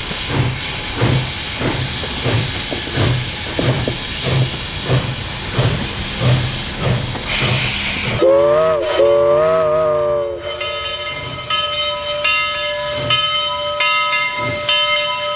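Steam train chuffing steadily about twice a second, then a steam whistle blowing for about two seconds. After the whistle, steady ringing tones with a repeating pattern of higher tones carry on.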